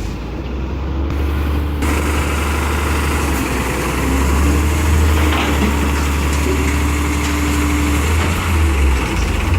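Garbage truck engine running close by with a heavy, steady low rumble. About two seconds in, a louder rushing noise joins it, along with a steady whine.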